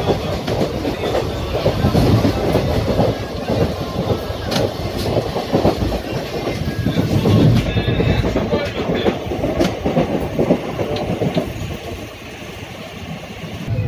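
Rumble and clatter of a moving Indian Railways passenger train's wheels on the track, heard from inside a sleeper coach. The noise eases a little near the end.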